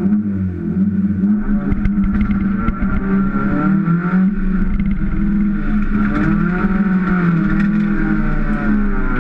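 Kia ProCeed rally car's engine heard from inside the cabin, pulling away from the stage start and accelerating hard, its pitch climbing and dropping again with each gear change.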